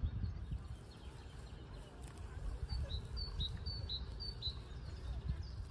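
A small songbird calling a quick run of about half a dozen short, high chirps, starting about three seconds in, over a low rumbling noise.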